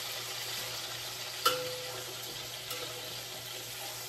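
Hamburger steaks sizzling steadily as they fry in a skillet, with one sharp knock about a second and a half in.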